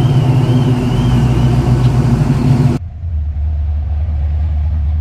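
Car engine running with a loud low rumble and a faint warbling high tone over it. It cuts off abruptly about three seconds in, giving way to a steady, deeper low drone.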